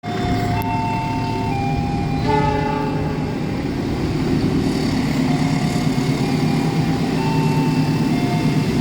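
Train running with a steady low rumble, and a series of held tones over it that step between a few pitches, each lasting about a second.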